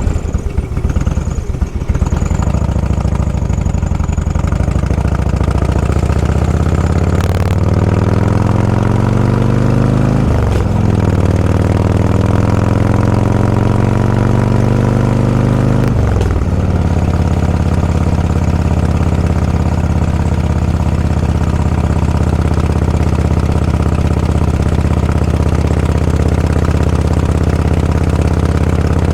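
Motorcycle engine pulling the bike along under power, its pitch climbing and then dropping sharply twice, about ten and sixteen seconds in, as it shifts up through the gears. After that it runs at a steady pitch.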